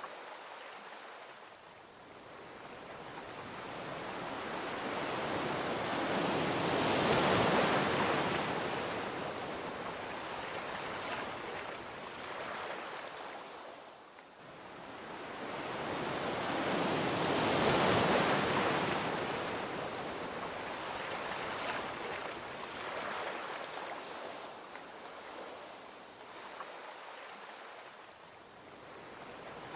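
Gentle ocean waves breaking and washing onto a beach, a steady hiss of surf that swells twice, about ten seconds apart, and falls back in between.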